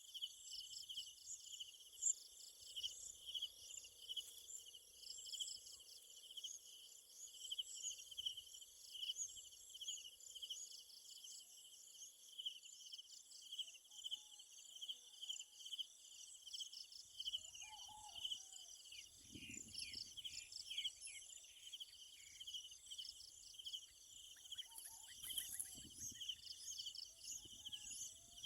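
A steady, faint chorus of insects (crickets or cicadas) with a high, rapidly pulsing trill. A few brief bird chirps come in over it in the second half.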